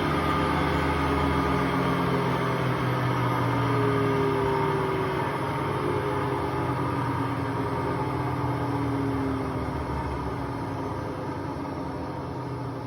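Hotpoint Aquarius WMA58 washing machine spinning at 1400 rpm, its drum rumbling with the noise of worn drum bearings. Over the last few seconds the tones sag in pitch and the noise slowly fades as the drum slows.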